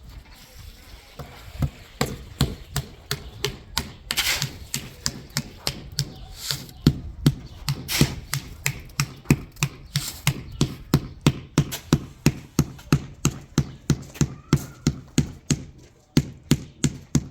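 Rhythmic knocking: a long run of sharp blows that starts about a second and a half in, at about two a second at first and then about three a second.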